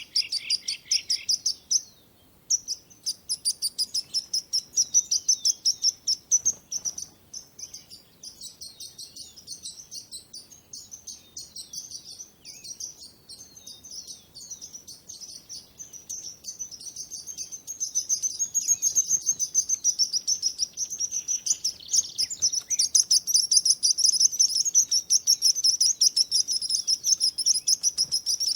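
Many small birds chirping rapidly and continuously in high, quick notes, many a second. The chorus softens through the middle and grows louder again in the second half.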